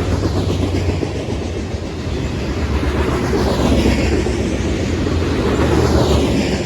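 Freight train cars rolling past at close range: steady rumble and clatter of steel wheels on the rail, swelling and fading as each truck goes by.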